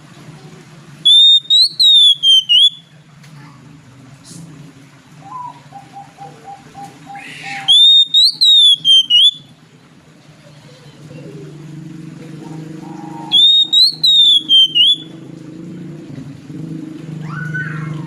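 Oriental magpie-robin (kacer) singing under a cage cover: three loud whistled phrases of quick rising-and-falling notes, each about a second and a half long and spaced about six seconds apart, with a few softer short chirps between them. A steady low hum runs underneath.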